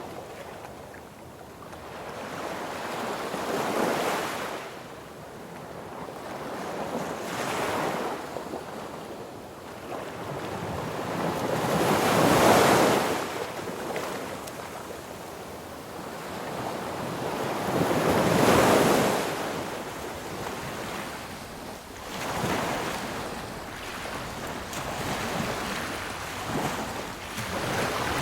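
Sea waves breaking on a beach: a steady wash of surf that swells and falls every few seconds, with the two biggest waves crashing about halfway through and a little past two-thirds of the way through.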